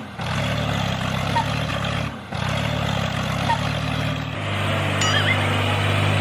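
Steady low engine-like drone of a small vehicle, cutting out briefly twice and running smoother and louder for the last couple of seconds, with a few short chirps near the end.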